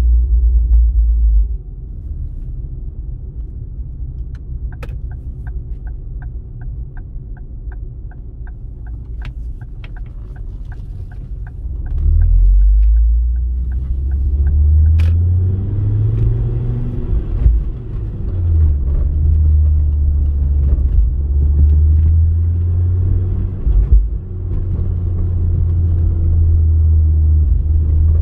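Ford Focus ST mk2's turbocharged five-cylinder engine and road noise: a low rumble that drops quieter after a second or so, while an indicator ticks about twice a second. About twelve seconds in, the car pulls away, its engine note rising and stepping back down through the gear changes.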